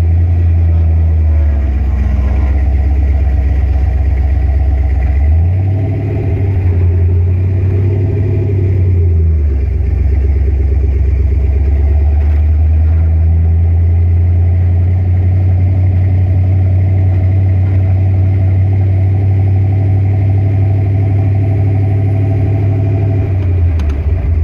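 BluePrint Engines 306 cubic-inch Ford small-block V8 (aluminum heads, roller cam, Holley Sniper EFI) in a Factory Five '33 hot rod, heard on board while driving. It runs at low revs, pulls up in revs about five seconds in, eases back a few seconds later, then runs steady.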